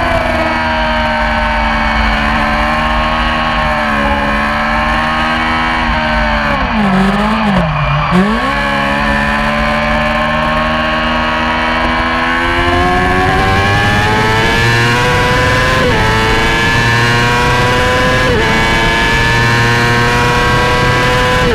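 Yamaha YZF-R6 600cc inline-four racing engine at high revs. The revs fall and pick up again about seven seconds in, then climb steadily through the gears with two quick upshifts near the end.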